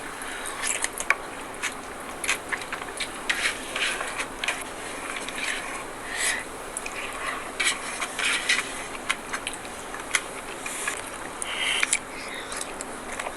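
Close-miked mukbang eating sounds: irregular chewing, lip smacks and small wet mouth clicks.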